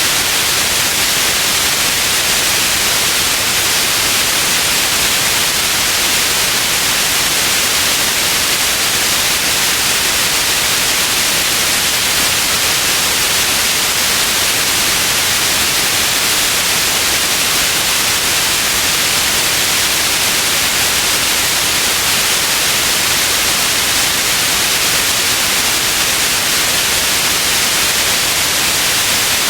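Steady white noise: an even, unchanging hiss, brightest in the upper range, with no breaks or other sounds.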